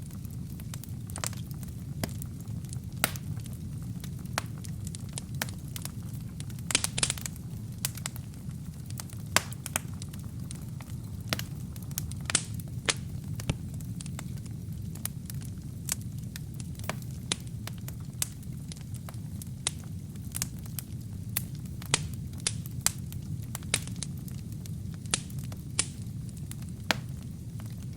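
Wood and kindling burning in a fireplace: a steady low rumble of flames with frequent sharp, irregular crackles and pops, a brief flurry of them about seven seconds in.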